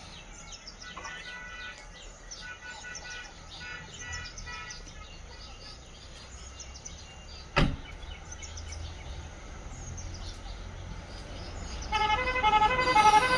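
Small birds chirping, with short high calls scattered throughout over a low steady hum, and one sharp click about halfway through. Near the end a much louder pitched sound starts, pulsing in a regular rhythm.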